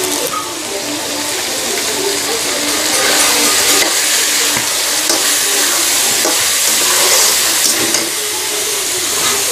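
Curry masala of chicken offal and potato sizzling in a wok (kadhai) with freshly added ground spices. A metal spatula stirs it, giving a few short scrapes against the pan over a steady hiss.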